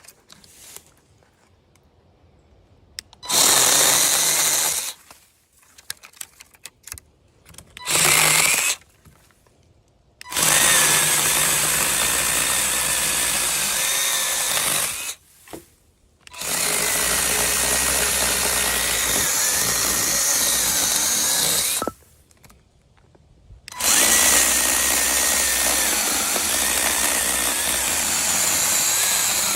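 WORKPRO 6.3-inch cordless electric mini chainsaw running in five bursts with pauses between: two short runs, then three runs of about five seconds each.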